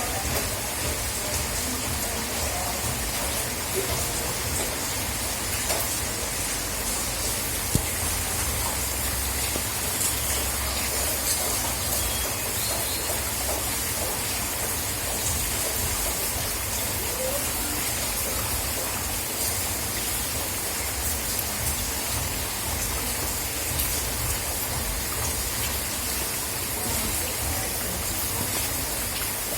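Steady rain falling, an even hiss with scattered drops tapping.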